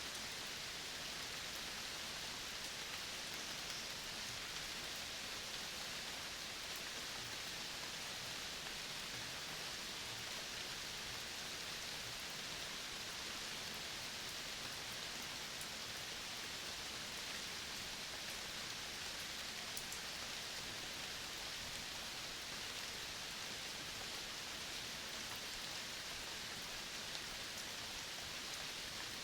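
Steady outdoor ambience: an even, unbroken hiss, strongest in the upper range, with a few faint ticks and no distinct calls.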